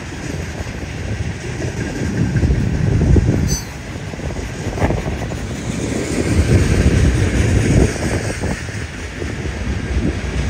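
Freight train cars rolling past close by: a heavy steady rumble with rattling and clatter of steel wheels on the rails, dipping briefly about a third of the way in.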